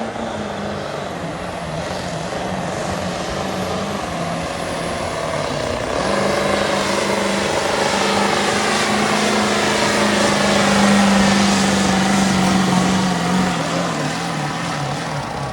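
Stock diesel pickup truck engine at full throttle pulling a weighted sled, a steady heavy engine note with a rush of turbo and exhaust noise. It gets louder about halfway through, then the engine pitch sags near the end as the truck slows under the load.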